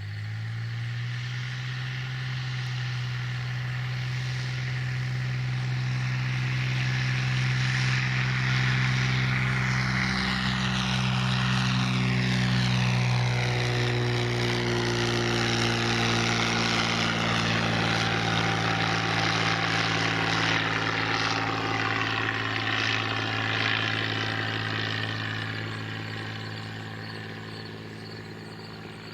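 Cessna 182 single-engine propeller plane under full power departing, growing louder as it comes closer, dropping in pitch as it passes about halfway through, then fading as it moves away.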